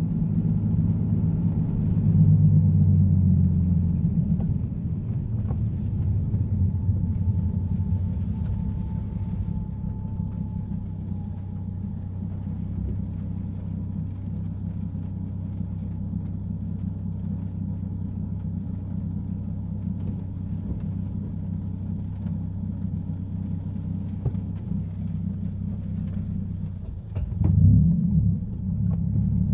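Nissan Fairlady Z (Z34)'s 3.7-litre VQ37 V6 running on the move with a steady low drone. It is louder for the first few seconds, then settles, and near the end the revs briefly rise and change.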